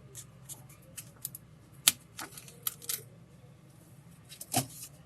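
Small sharp clicks and taps of a repair tool on the plastic and metal parts of an opened Redmi 4A smartphone while its battery is being disconnected. The loudest click comes about two seconds in, and a second strong one comes near the end.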